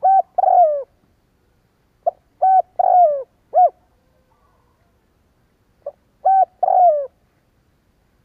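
Spotted dove cooing: three phrases about three seconds apart, each a short opening note followed by two or three coos, the longer coo sliding down in pitch at its end.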